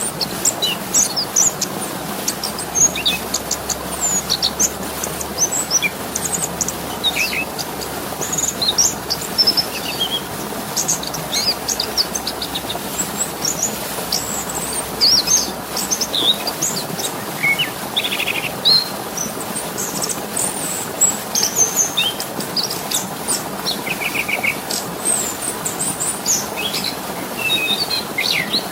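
Small songbirds chirping and trilling in short, frequent high calls over a steady rush of running water.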